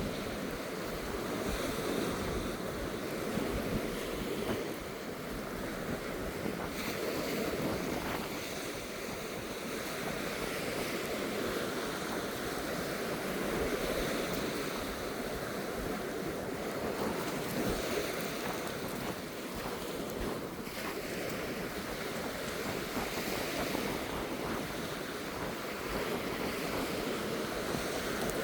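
Waves breaking and washing on a beach, a steady surf that swells and eases every few seconds, with wind buffeting the microphone.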